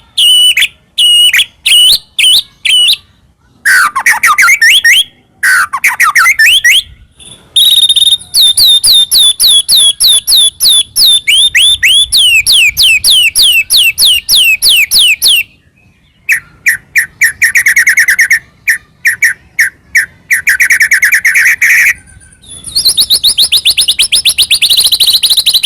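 White-rumped shama (murai batu) singing loudly in full song, a fast run of varied phrases: repeated sharp notes, quick falling sweeps and rapid trills, with short pauses between some of them.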